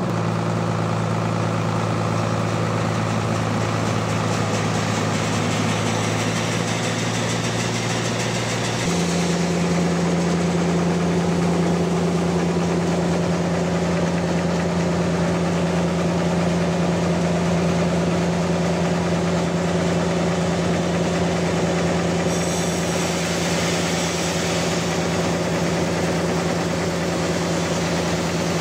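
Sawmill machinery running steadily while sawing a large trembesi log. The machine's low steady hum changes pitch abruptly about nine seconds in, and the higher noise grows louder at the same point.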